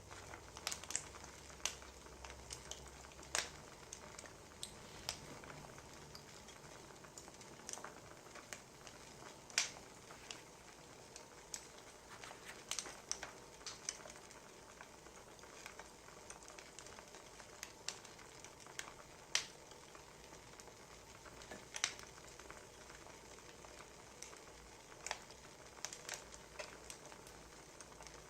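Burning firewood crackling: irregular sharp pops and snaps over a faint steady hiss.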